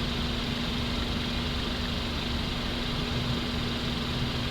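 Steady engine hum with a constant low tone and an even hiss, not changing in pitch or level.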